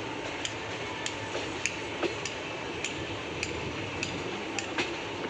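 Passenger train running, a steady rumble with sharp, irregular clicks about twice a second.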